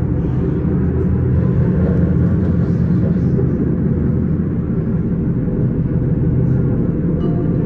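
S-Bahn commuter train running along the line, a steady loud low rumble of wheels and running gear.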